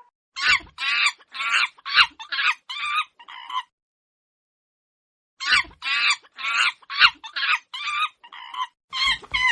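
Chicken clucking: two bouts of about seven quick calls each, separated by a short silence.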